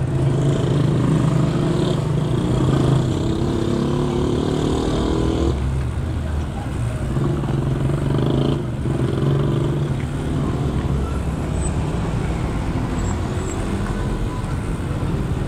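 A motor vehicle's engine running steadily close by, a low hum that eases briefly about five and a half seconds in.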